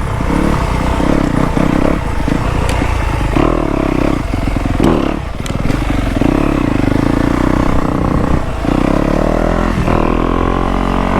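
Dirt bike engine running steadily under riding throttle, its pitch rising and falling a little, with a few brief throttle dips about halfway through and again near the end.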